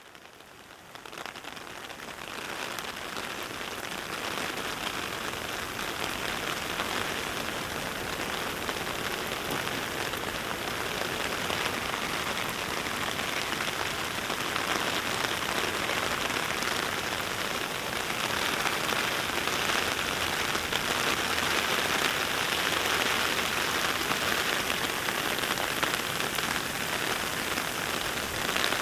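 Heavy rain falling steadily, a dense even hiss of drops. It fades in over the first couple of seconds.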